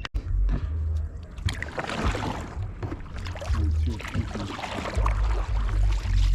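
Small boat moving across open water with a continuous rushing, splashing noise, and intermittent low rumbling wind noise on the microphone.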